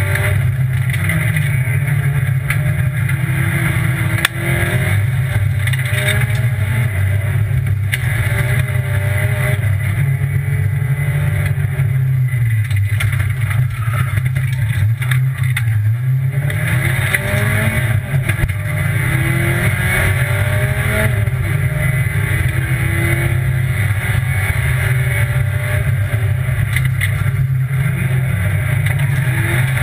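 Rally car engine heard from inside the cabin, driven hard on a special stage: the revs climb and drop again and again through gear changes. About halfway through it comes off the throttle for a tight junction, then pulls back up in one long rising sweep.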